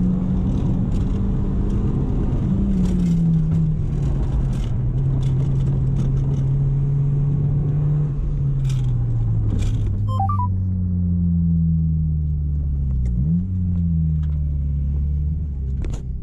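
1998 Honda Civic EK3's D15 1.5-litre four-cylinder engine with an SRS G35 aftermarket exhaust, heard from inside the cabin as the car is driven. The note holds steady, then falls in pitch as the car slows, with a brief dip and rise in the note about three-quarters through.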